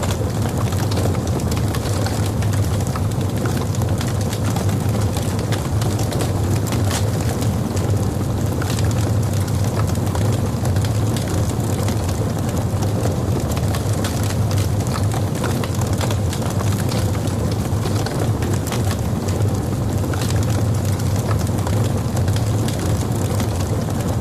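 Logs burning in a fireplace: a steady low roar of the fire with frequent small crackles and pops throughout.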